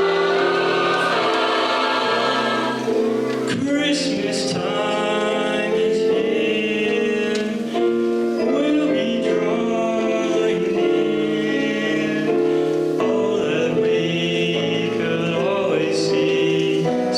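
High school choir singing in held chords. From about three and a half seconds in, a more prominent voice with vibrato carries the line over them.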